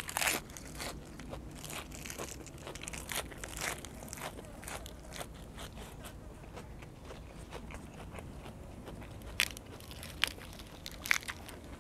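Close-up crunchy chewing of a fresh lettuce-leaf wrap: irregular crisp crunches as the raw leaves are bitten and chewed, with a few louder sharp clicks near the end.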